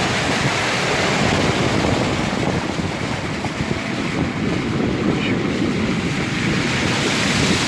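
Steady rush of floodwater running across a paved lot, with wind buffeting the microphone.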